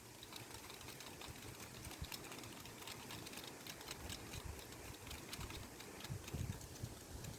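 Plant leaves rattling in the wind: a fast, irregular run of small dry clicks, with low wind rumble on the microphone, stronger about six seconds in.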